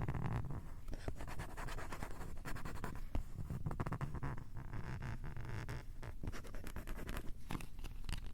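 Fingers scratching on a Tascam recorder right at its built-in microphones: a dense run of scratchy clicks over a low rumble of handling noise.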